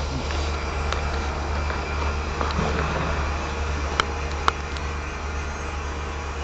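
A steady low hum, with two sharp clicks half a second apart about four seconds in.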